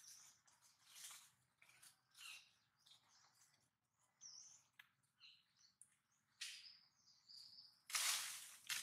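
Faint forest background: small birds chirping now and then among scattered soft rustles, with a short, louder noisy burst about eight seconds in.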